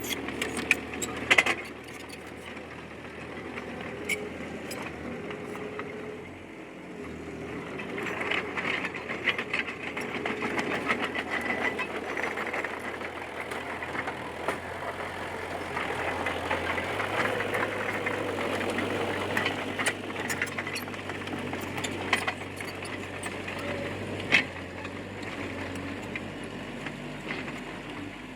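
Komatsu D20P crawler bulldozer's diesel engine running under load, with many short metallic clicks and clanks from the tracks and running gear. The engine gets louder from about eight seconds in and again around sixteen seconds as it works harder, with a few sharper knocks along the way.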